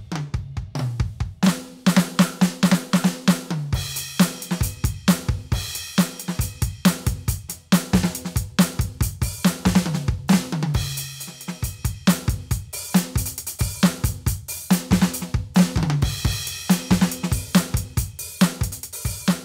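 Roland TD-17KVX V-Drums electronic drum kit played through its module: a steady groove of kick, snare, hi-hat and cymbals, broken several times by fast tom fills that step down in pitch.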